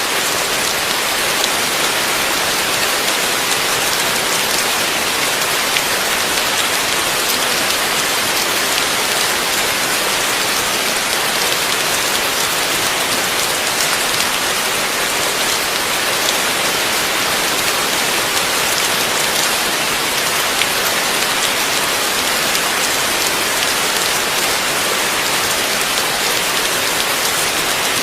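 Heavy rain falling steadily, a dense, even hiss with the patter of drops striking a surface.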